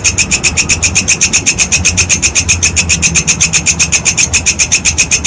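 Walang kecek grasshopper calling: a fast, even train of high-pitched clicks, about ten a second, with a faint low hum underneath.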